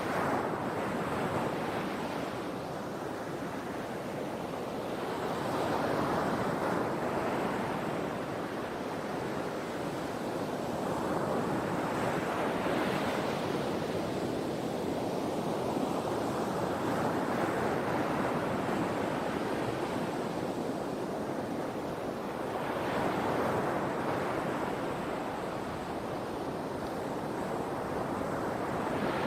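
Sea waves breaking and washing on the shore, each wave swelling and easing away about every five to six seconds.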